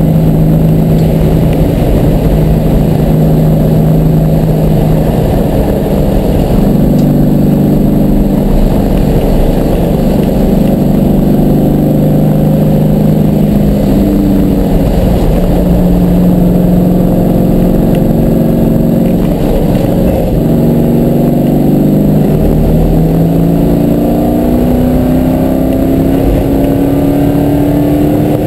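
Car engine heard from inside the cabin while being driven hard around a race track, its pitch shifting up and down with throttle and gears, over steady wind and tyre noise. Near the end the engine note climbs steadily as the car accelerates.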